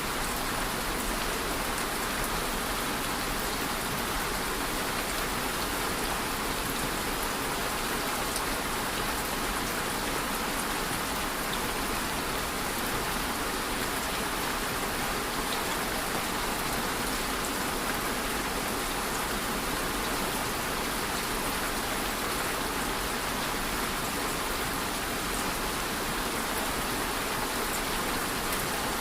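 Steady rain falling, an even hiss with fine pattering drops that does not let up.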